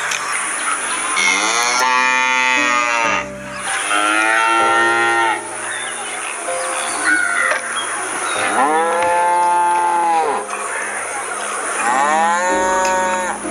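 Cows mooing: four long moos a few seconds apart, each rising then falling in pitch.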